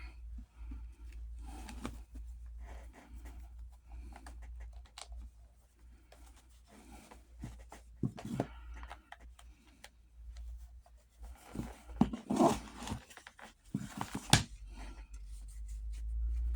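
Hands working on a saddle's leather and buckle hardware: scattered rustling, scraping and short knocks, busiest in the second half, over a steady low hum.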